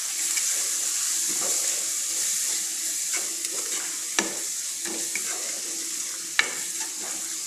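Onion, yogurt and spice paste sizzling in hot oil in a dark-coated wok-style pan while a wooden spatula stirs it, the masala being fried down. The sizzle is a steady hiss, with a few sharp taps and scrapes of the spatula against the pan, the clearest about four seconds in and again near six and a half seconds.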